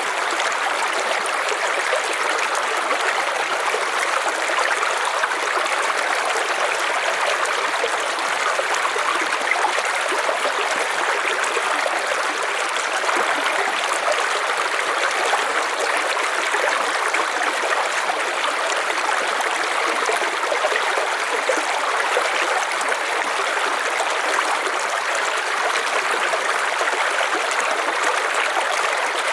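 River water flowing and splashing in a steady rush, strongest in the middle and upper range.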